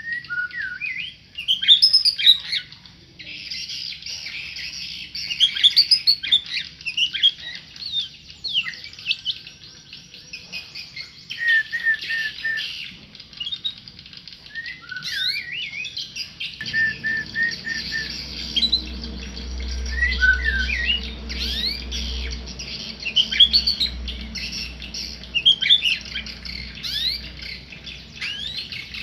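A tame murai (a Copsychus songbird) singing a long, varied song of clear whistles, quick rising and falling notes and short runs of repeated notes.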